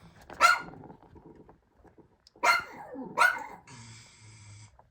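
Domestic dog barking three times, short sharp barks.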